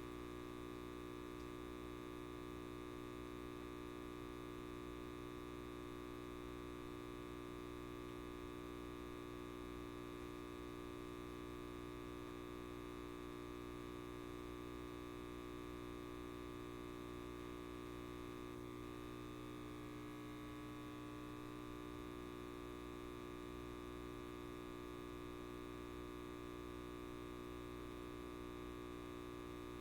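Electric light bulb buzzing with a steady mains hum, several fixed tones held without change.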